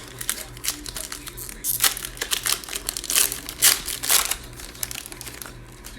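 Plastic wrapper of a Panini Mosaic trading-card pack being torn open and crinkled by hand, in a run of sharp crackles that is loudest in the middle.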